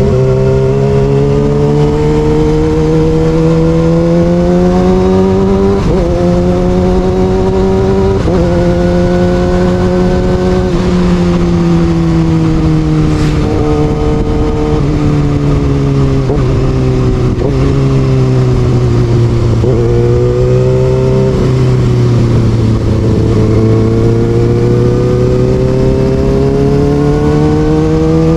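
Kawasaki ZX6R inline-four engine running through an Austin Racing aftermarket exhaust under way, its pitch climbing for the first several seconds with two small sudden jumps, falling steadily through the middle, then climbing again near the end.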